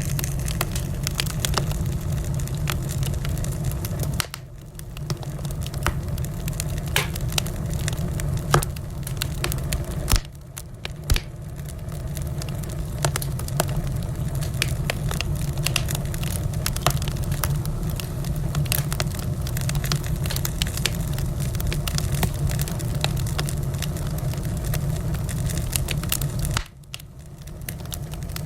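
Wood fire in a fireplace crackling, with irregular sharp pops and snaps over a steady low rumble. The rumble drops away briefly three times, about four, ten and twenty-seven seconds in.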